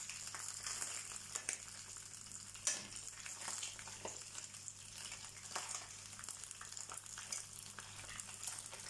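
Stuffed mumbar, rice-filled intestine casings, sizzling steadily as they shallow-fry in oil in a pan. Several sharp clicks come from metal tongs turning them.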